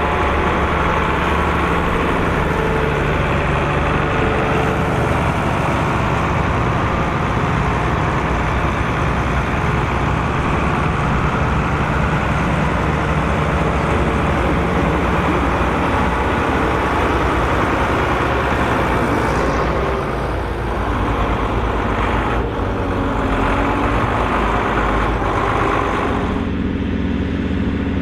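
Volvo BM 2654 tractor's diesel engine running steadily under load as it pulls a five-furrow plough. Near the end the sound turns duller, losing much of its upper hiss.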